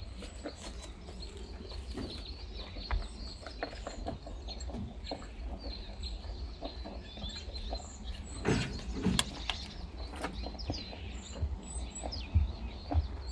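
Birds chirping in short scattered calls, mixed with occasional light clicks and knocks, with a louder cluster of them about two-thirds of the way in.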